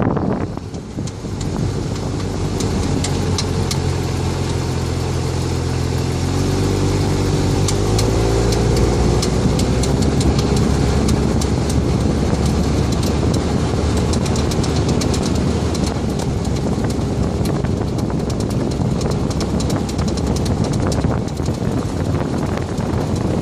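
Vehicle engine running; its pitch rises a little after about six seconds and then holds steady, with many sharp ticks over it.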